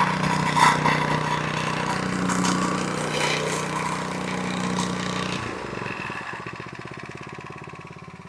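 Gas-engine plate compactor, a 78.5cc unit, running at full throttle with its vibrating plate rattling over freshly laid crushed stone. About five seconds in the engine winds down and settles into a slower, quieter idle.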